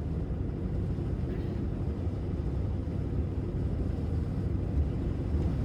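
Heavy truck driving on the road: a steady low rumble of engine and tires.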